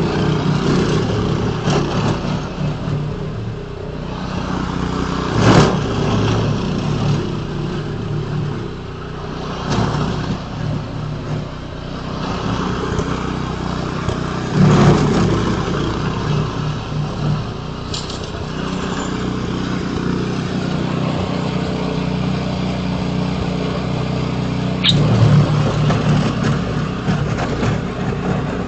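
An engine of a snow-clearing machine running steadily, with louder scraping or knocking bursts about 5, 15 and 25 seconds in.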